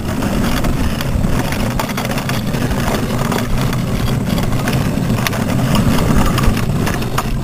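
Car running, a steady engine and road rumble with a few faint clicks.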